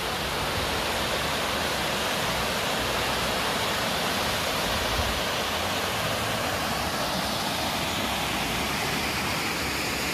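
Bride's Veil Waterfall pouring down the rock, a steady rushing of falling water.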